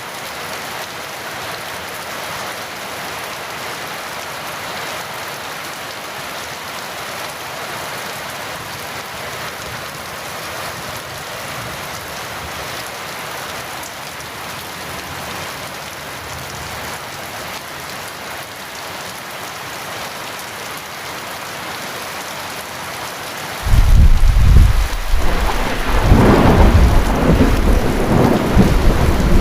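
Steady heavy rain falling, then near the end a sudden loud clap of thunder that rolls on in a deep rumble.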